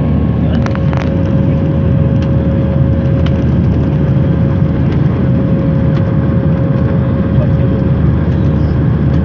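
Airliner's jet engines running steadily, heard inside the passenger cabin as a loud, even low noise with a steady whine over it.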